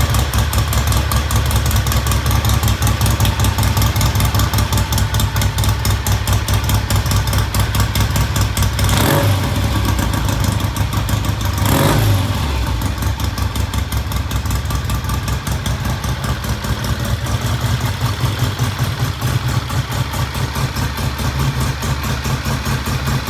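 A vintage British motorcycle engine running with a steady, rapid firing pulse, with the throttle blipped briefly twice near the middle.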